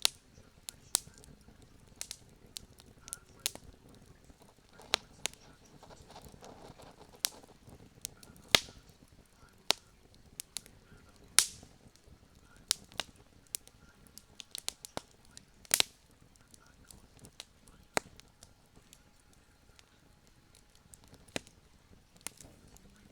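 Campfire crackling: irregular sharp pops and snaps, a few of them much louder, over a faint low hiss.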